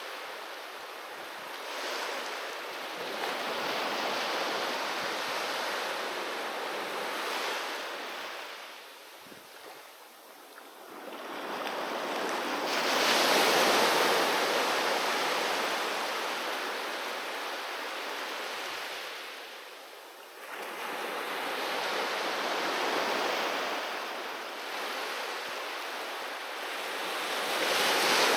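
Ocean waves breaking on a beach, the surf swelling and ebbing: a quieter lull about ten seconds in, a big wave crashing soon after, and another wave building near the end.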